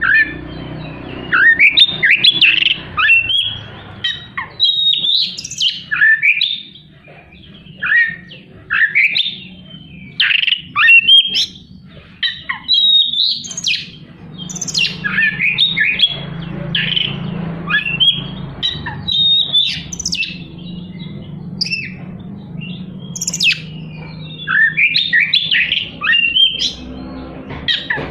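Oriental magpie-robin (kacer) singing in loud bursts of fast, varied, harsh phrases and sweeping whistles, with short pauses between bursts. A faint steady low hum runs underneath.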